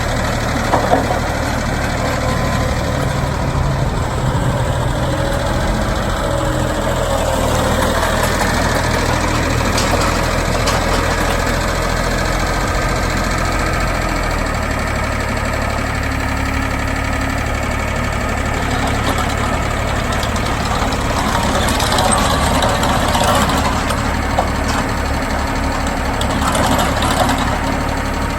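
Vermeer Flex Track 75 backhoe/trencher engine running steadily under changing load as the machine works. The low drone shifts about halfway through, and a few knocks and clatters come in the later part.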